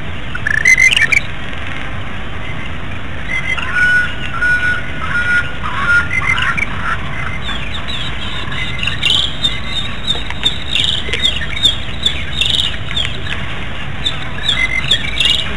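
Birds calling over a steady outdoor hiss: a rising call near the start, a run of level whistled notes a few seconds in, then a fast series of short falling chirps through the second half.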